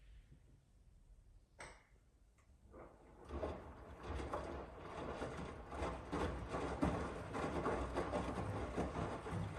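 Miele W1 washing machine: two short clicks, then about three seconds in it starts a steady noisy, clattery running sound with many small ticks that builds and holds.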